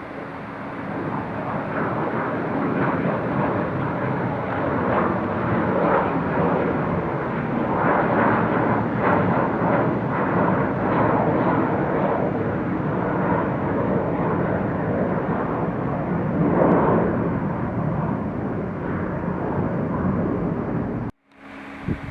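Jet airliner departing: loud, steady jet engine noise that builds about a second in and cuts off abruptly near the end.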